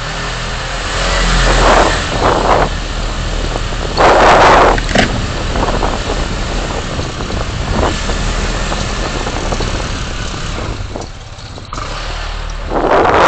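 City road traffic recorded by a car's dashcam: a steady engine and road hum, with vehicles passing in louder swells, the loudest about four seconds in and another near the end.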